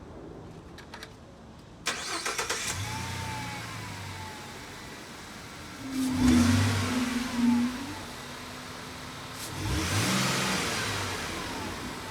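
Ford Transit 350 van engine started: a few faint clicks, then the starter cranks briefly and the engine catches just under two seconds in and settles to idle. It is then revved twice, each rev rising and falling back to a steady idle.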